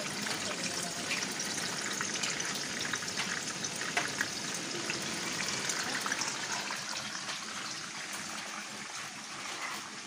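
Tofu cubes deep-frying in hot oil in a pan, a steady sizzle with fine crackling.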